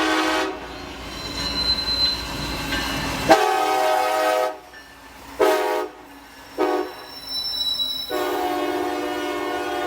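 Train horn sounding a series of blasts. A long blast ends about half a second in and is followed by a few seconds of low rail rumble. Then come a long blast, two short ones and a final long blast.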